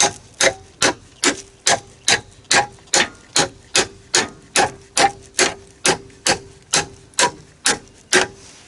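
Steady hammer blows, about two and a half a second, each a sharp metallic strike with a short ring. It is hammering at the joint of a snowcat's rubber crawler track, driving a fitting home.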